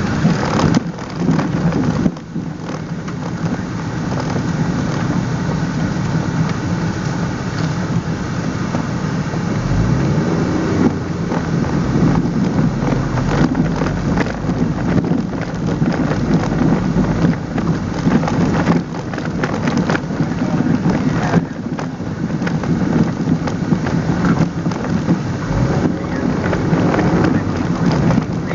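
Toyota MR2's engine heard from inside the cabin as the car drives: a steady low drone under a rough, rumbling wash of noise, with a few brief dips in level.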